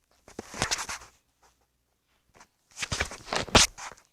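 Two bursts of rustling mixed with sharp clicks and knocks, the second one louder.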